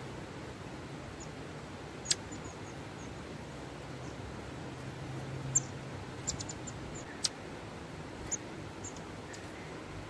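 Small birds giving a handful of very short, high-pitched chirps, scattered and irregular, the loudest about halfway through, over a steady low background hum.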